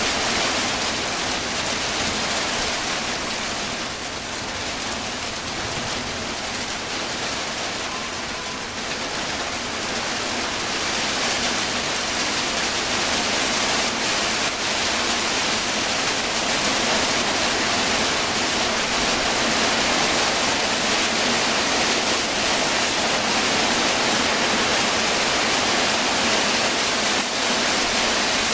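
Steady rain falling, a continuous even hiss and patter that eases slightly a few seconds in and then picks up again.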